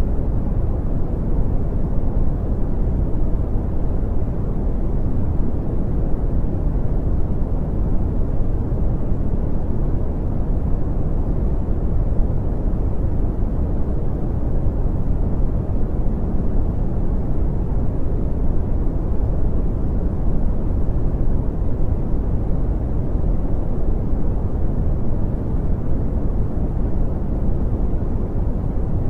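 Brown noise: a steady, deep rushing hiss, strongest in the bass and falling off towards the treble, with no change.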